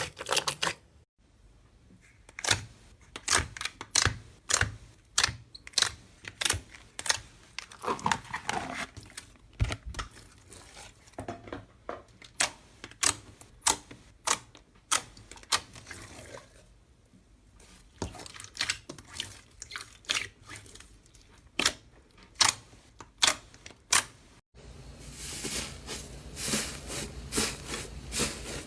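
Slime being pressed and worked, letting out a run of sharp, irregular clicks and pops. After an abrupt change near the end, the clicking becomes denser and rougher.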